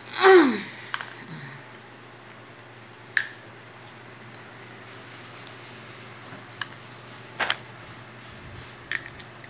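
A toddler eating corn on the cob: scattered small clicks and smacks from his mouth as he bites and chews, over a steady low hum. The loudest sound is a brief squeal near the start that slides quickly from high to low.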